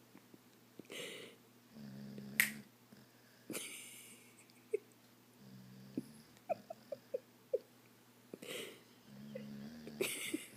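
Dog snoring: three low, buzzing snores about three and a half seconds apart, each coming just after a breathy hiss, with a run of about five short clicks in the middle.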